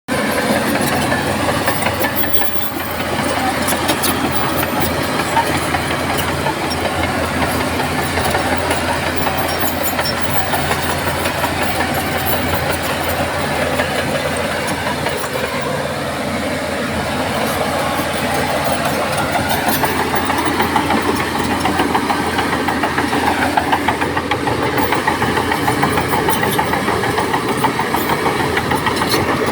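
Heavy diesel engine of earthmoving machinery running steadily, the pitch shifting a little partway through as the load or throttle changes, with faint clicking over it.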